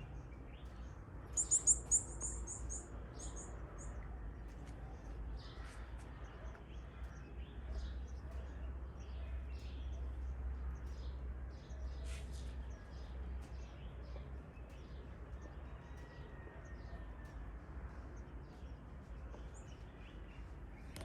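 Birds chirping: a quick run of about eight high notes a second or two in, then scattered short high chirps, over a steady low rumble.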